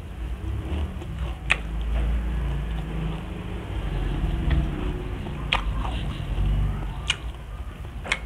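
Close-miked chewing of fried tilapia and rice, with four sharp wet mouth smacks.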